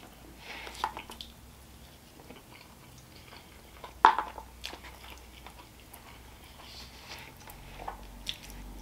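Close-up chewing and biting of barbecue riblets: wet, smacking mouth sounds with small scattered clicks. A sharp tap about four seconds in is the loudest sound.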